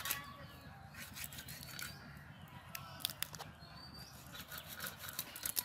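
Birds chirping in short high calls, over runs of sharp clicks that come in clusters.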